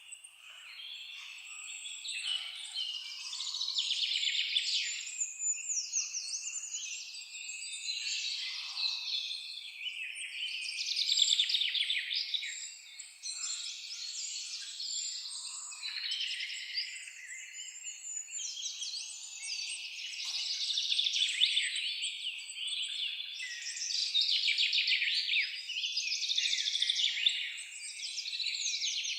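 A dense chorus of songbirds, many overlapping songs, chirps and rapid trills, swelling and easing in waves.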